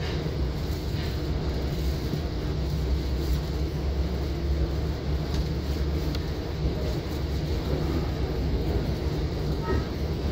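Long Island Rail Road train hauled by a DM30AC diesel locomotive, heard from on board while running: a steady low rumble that stays even throughout.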